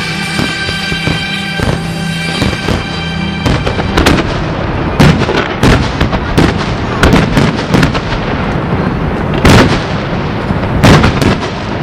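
Fireworks exploding: a string of sharp bangs and crackles, with several loud booms, the biggest about five and nine and a half seconds in and near the end. Music plays under them and stops about three seconds in.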